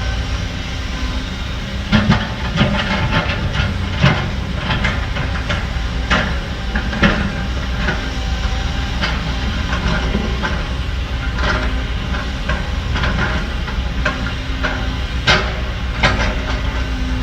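Heavy diesel earthmoving machinery running with a steady low rumble, over which come repeated sharp metallic clanks and scrapes, thickest in the first half and again near the end.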